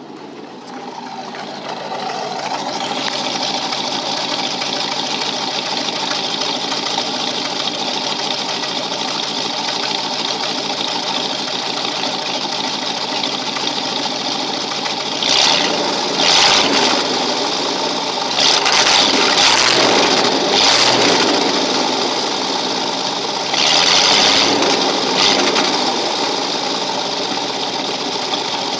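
Ford 460 big-block V8 heard right at the outlet of its side-exit 12-inch glass-pack exhaust, idling steadily, then revved in several short blips about halfway through and again later. On the revs the engine sputters and cuts out a little, a fault the owner has not yet diagnosed.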